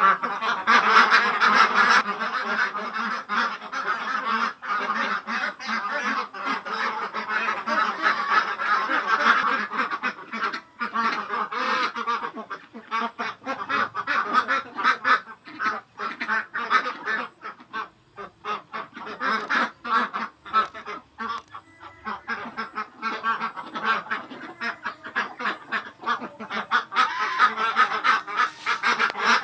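A flock of young Ratu laying ducks quacking without pause, many calls overlapping. The chorus thins out through the middle and swells again near the end.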